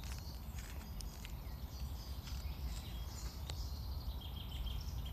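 Forest ambience: a steady low rumble of wind on the microphone with scattered faint clicks and crackles, and a short faint bird trill about four seconds in.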